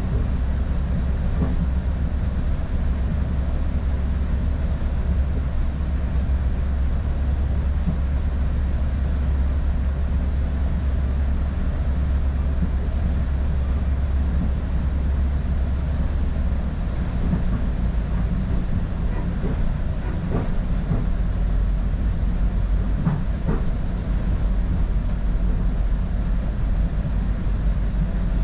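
Steady low rumble of a Northstar commuter train running along the track, heard from inside a passenger coach, with a few faint clicks late on.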